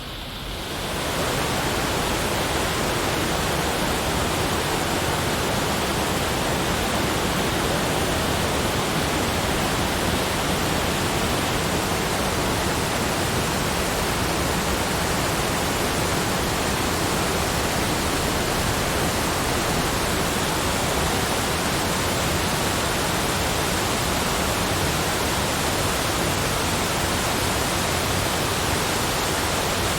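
A steady, even rushing noise, like falling water or pink noise, spread from low to high pitch with no rhythm or individual sounds in it. It dips briefly at the start and swells back in within about a second.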